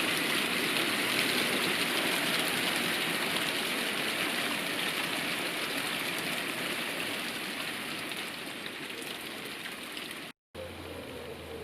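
Steady rain from a thunderstorm, a continuous hiss that slowly eases. About ten seconds in it cuts off suddenly and gives way to a quieter background.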